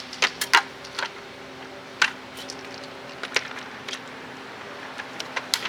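Sharp clicks and taps of small parts and tools being handled on a workbench, about half a dozen spread over several seconds, over a steady low hum.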